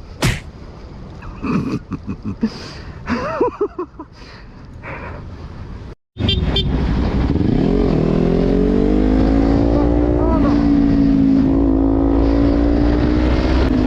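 Kawasaki Ninja 400's parallel-twin engine running under way, its pitch rising for about three seconds, dipping briefly, then holding steady. Before this, about six seconds in, a brief cut, with scattered voices and knocks ahead of it.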